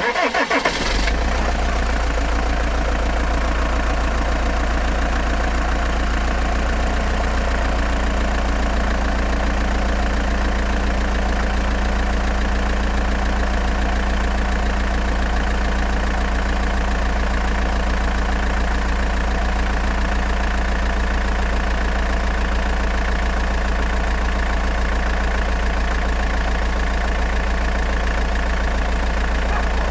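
Truck engine idling steadily with a deep, even drone.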